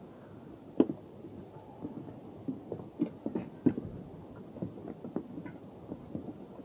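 Footsteps of hikers on a forest trail: irregular crunching and knocking steps, with a sharp knock about a second in and another a little before the four-second mark.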